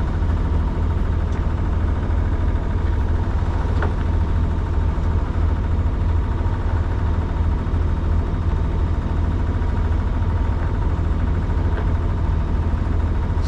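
A sailing yacht's engine running steadily under way, a constant low drone with a faint steady whine above it.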